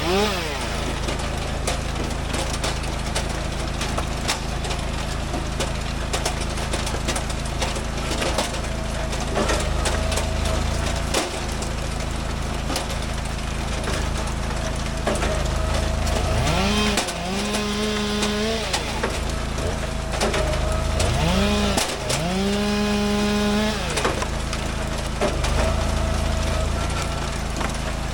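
Stihl chainsaw bucking firewood logs: it revs up and holds high under load through a cut, then drops back, three times. Another engine runs steadily underneath.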